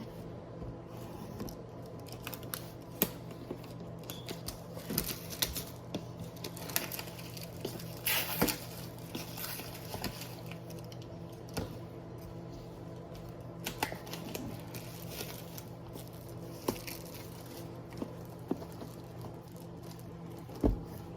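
Packaging of a tablet box being handled and opened: scattered taps and clicks with rustling and tearing of paper and plastic, over a steady low hum.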